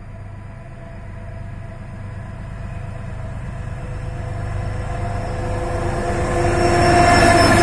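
Locomotive of a freight train approaching. Its steady running sound, a low rumble with a steady whine in it, grows louder as it comes closer and is loudest near the end.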